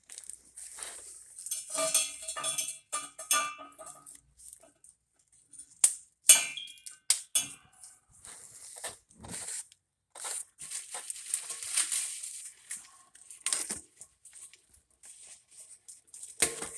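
Metal parts clinking, knocking and rattling as they are handled, with brief ringing notes a couple of seconds in, mixed with rustling and crinkling of packaging.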